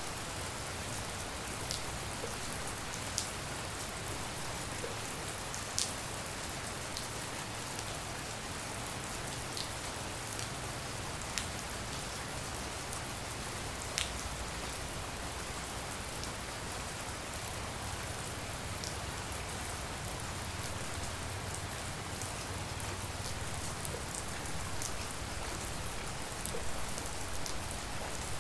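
Steady tropical rain falling, an even hiss with scattered sharper drops striking close by.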